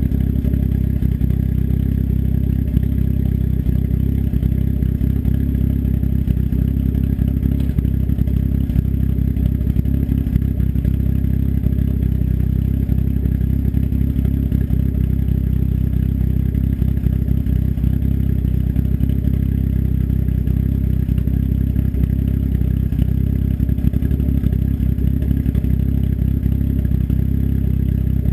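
Engine fitted with an S257 turbo and custom cams idling steadily through an open dump, a 3-inch turndown straight off the downpipe with no muffler.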